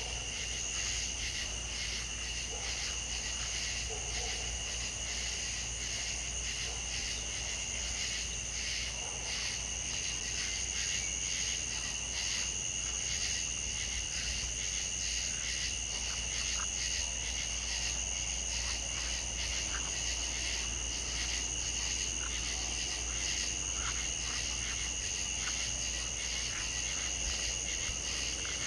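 Insect chorus, crickets trilling: a steady high-pitched pulsing drone in two pitches, over a constant low rumble.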